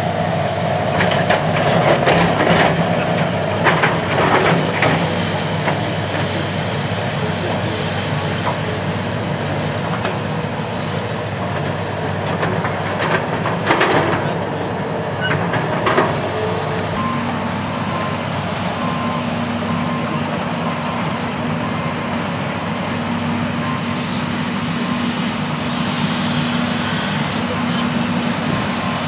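Heavy construction machine's diesel engine running steadily, with a few sharp knocks and clanks in the first half. From about halfway in, a reversing alarm beeps about once a second.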